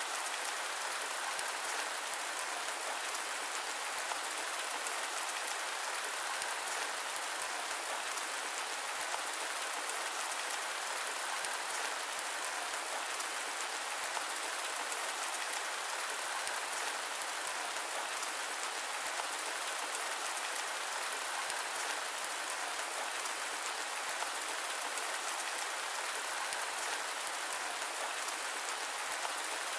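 Steady rain: an even, unchanging hiss of many drops with no thunder and no deep rumble.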